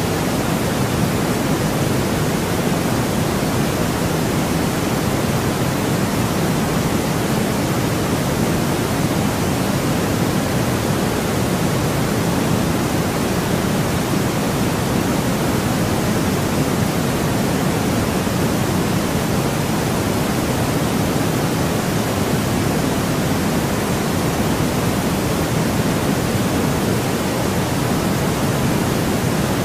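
White noise played as a continuous sleep sound: a steady, even hiss with a fuller low rush underneath and no change at all.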